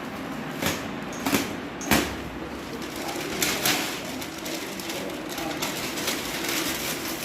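Table fan parts and packaging being handled: several short knocks and clicks with some rustling, the sharpest about two seconds in.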